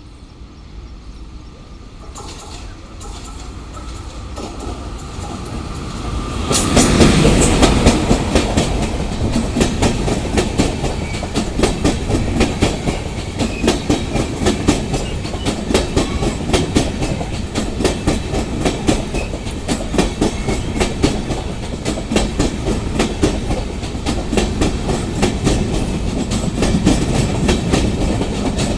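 Train approaching and rolling past at speed. It grows louder over the first seven seconds, then a long run of carriages follows, with wheels clacking rapidly and steadily over the rail joints.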